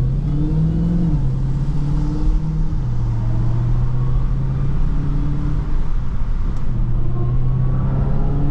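Supercharged 6.2-litre HEMI V8 of a Dodge Charger SRT Hellcat, heard from inside the car while driving on a wet road. The engine note rises briefly in the first second, then drops a little twice and runs steady.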